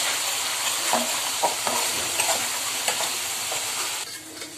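Onion, green chillies and spices sizzling in oil in an aluminium kadai while a metal spoon stirs them, scraping the pan a few times. The sizzling drops away sharply near the end.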